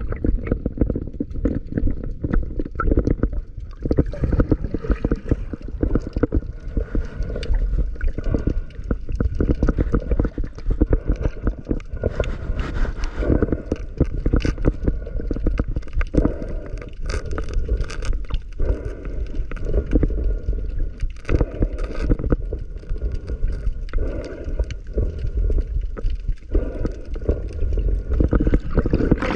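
Muffled underwater noise of sea water churning and gurgling, with many scattered clicks and knocks throughout.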